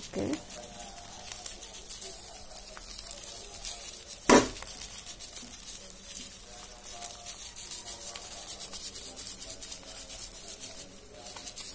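Tapioca-and-egg batter frying on low heat in a non-stick pan, sizzling with a fine, steady crackle. One sharp knock stands out about four seconds in.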